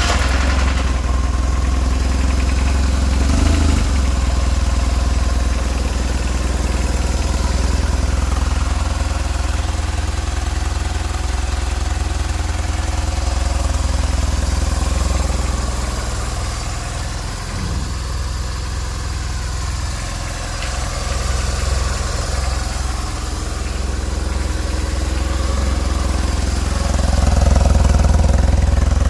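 2004 BMW R1150GS Adventure's boxer twin engine idling steadily just after a cold start, the bike having sat unstarted for about three weeks. It gets a little louder near the end.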